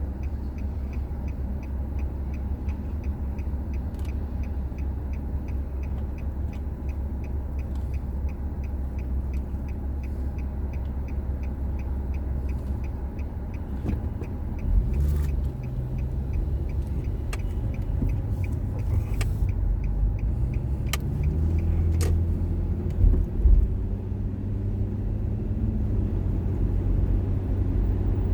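Car cabin rumble with a light, even ticking about three times a second, typical of a turn-signal relay, for roughly the first half. About halfway through, the engine and road noise grow louder as the car moves off, with a few sharp knocks.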